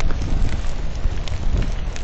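Steady rain with many short, sharp taps of drops striking, over a low rumble of wind buffeting the microphone.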